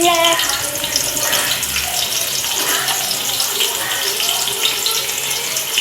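Freshly added sliced onions sizzling in hot oil with whole spices, a steady hiss of frying.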